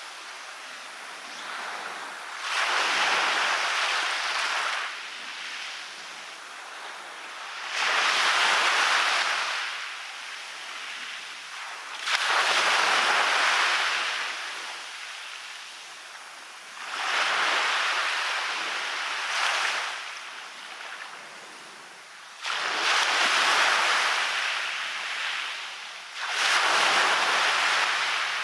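Waves breaking on a beach: six surges of surf, each a rush lasting two or three seconds, about every four to five seconds, with a quieter wash between them.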